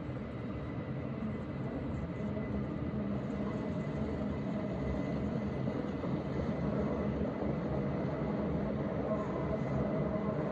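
Rhaetian Railway passenger train rolling across a stone arch viaduct: a steady rumble of wheels on rails that grows slightly louder.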